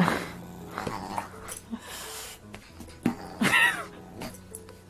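A dog vocalizing: a short call at the start and a louder, longer call about three and a half seconds in.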